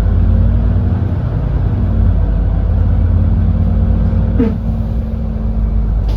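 GX12P natural-gas engine of a Smart 110G city bus running under way, a steady low rumble heard from inside the bus. About four seconds in there is a short falling squeal, and a click near the end.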